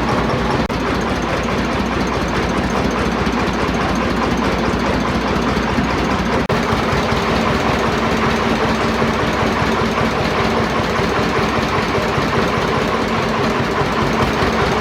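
An engine, freshly rebuilt, running steadily at idle.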